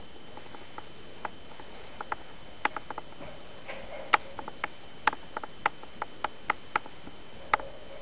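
Cockatiel making a series of sharp, irregular clicks and taps, about a dozen over several seconds, with no calls.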